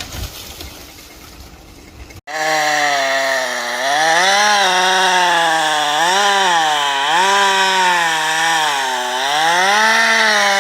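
Two-stroke chainsaw cutting wood, starting abruptly about two seconds in; its engine pitch repeatedly dips as the chain loads in the cut and rises again as it frees up.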